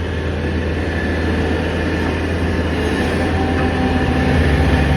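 Heavy truck's diesel engine running steadily with a low drone. A new, higher steady tone joins it about three and a half seconds in.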